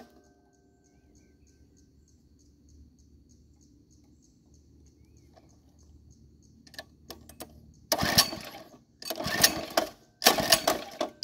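Recoil pull starter on a Motovox MBX10 mini bike yanked three times in quick succession, about one pull a second, starting about two-thirds of the way in, with a fourth beginning at the end; the engine turns over without catching. Before the pulls, only a faint low hum with a light tick about four times a second and a few clicks.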